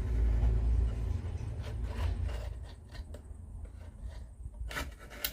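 Small plywood kit parts being handled and slid into place on a wooden base: wood rubbing and scraping, with low bumping at first and a few sharp clicks near the end.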